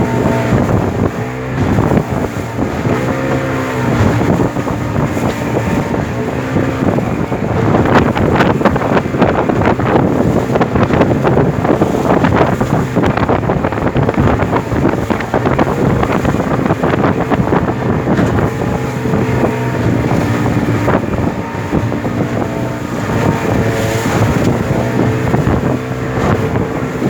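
Motorboat engine running under way, its note dipping and rising briefly a couple of times, with rushing water and wind noise on the microphone.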